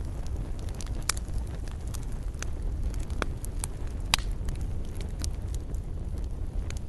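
Wood campfire burning, with irregular sharp crackles and pops over a steady low rumble; the loudest pop comes about four seconds in.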